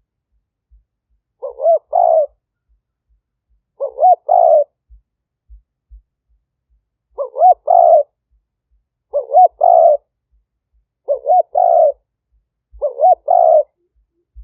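Spotted dove cooing its multi-note call six times, about every two seconds.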